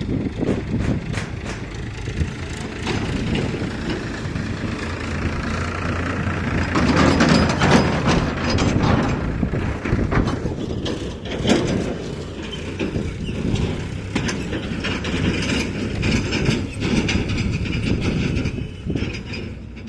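Machinery running with many irregular knocks and clatters, loudest around seven to eight seconds in.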